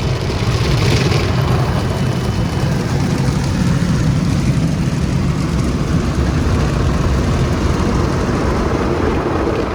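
Automatic car wash machinery running: a loud, steady low rumble with a hiss over it, with no breaks.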